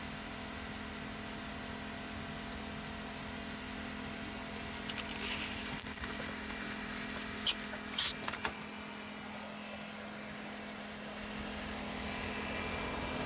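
Caravan roof-hatch exhaust fan running with a steady hum, its blade turning clear of the fly-wire screen instead of scraping on it. A few short, sharp clicks come about halfway through.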